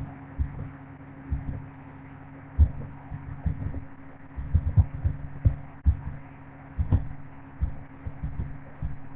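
An engine running with a steady low hum, overlaid by irregular low thumps that come several times a second.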